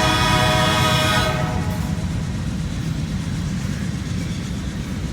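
Diesel locomotive horn sounding a steady chord that cuts off about a second in, followed by the low rumble of freight cars rolling past fast.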